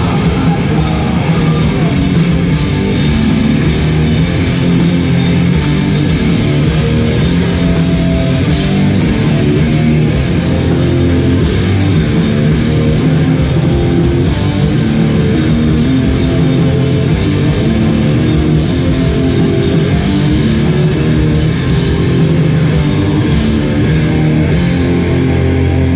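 Hardcore band playing live and loud: distorted electric guitars and bass over drums. Just before the end the cymbals stop and a low chord rings on.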